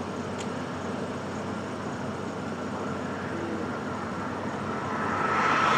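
Steady engine and road noise, growing louder near the end.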